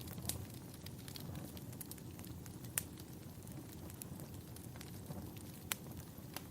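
Wood fire burning in a fireplace: a steady low hiss of the flames with scattered sharp crackles and pops, the loudest about three seconds in and near the end.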